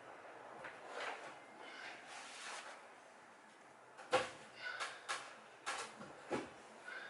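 Sharp knocks and clatters of hand work on roof timbers: a few soft sounds, then about five sharp knocks from around four seconds in, the first one loudest.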